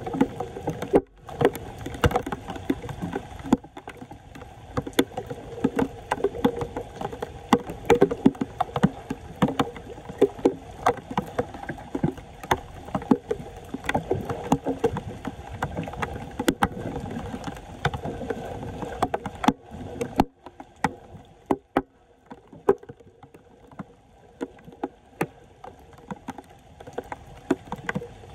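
Flood water sloshing and splashing, with many irregular sharp splashes and knocks; the splashing thins out about two-thirds of the way through.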